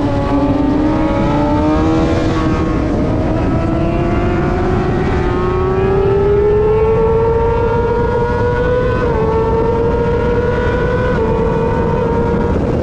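Racing superbike engine pulling hard, its pitch rising steadily with two brief dips about nine and eleven seconds in, over heavy wind rush on the microphone.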